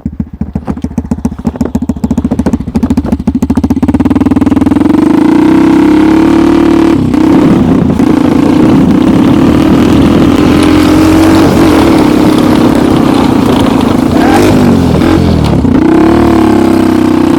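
Homemade snowmobile's engine, first running slowly with separate firing pulses, then revving up about four seconds in and held at high revs, loud and steady, as the machine drives off.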